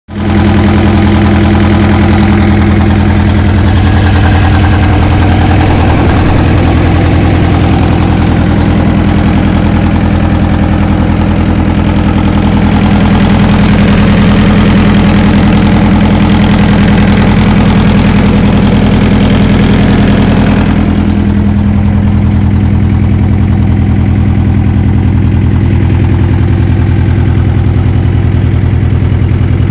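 ASV RC50 Posi-Track compact track loader's diesel engine running steadily and loud. About two-thirds of the way through, the higher-pitched noise drops away and it carries on at a lower, steadier note, like an engine throttled back.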